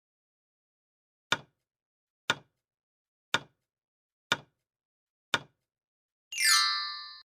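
Countdown timer sound effect: five sharp ticks one second apart, then a bright chime with a falling sweep about six seconds in, signalling that the time to answer is up.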